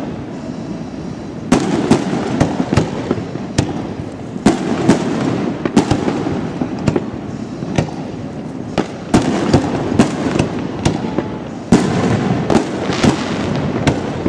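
Aerial fireworks display: shells bursting in a rapid, irregular run of sharp bangs over a continuous rumble, with several louder flurries.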